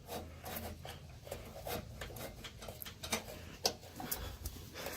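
Scattered, irregular light clicks and knocks over a faint low hum, with no engine running.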